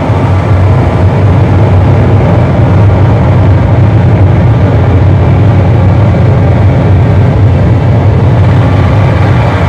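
Dense, loud distorted noise over a heavy low drone, steady with no breaks: a live harsh-noise music set.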